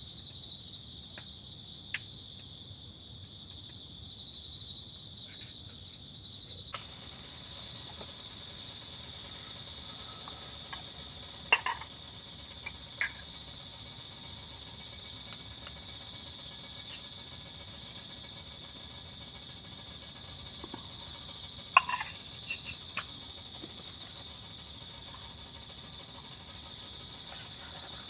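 Crickets chirping in repeated trills about a second long, over a steady high insect hum. Two sharp clinks stand out, about a third and about three quarters of the way through.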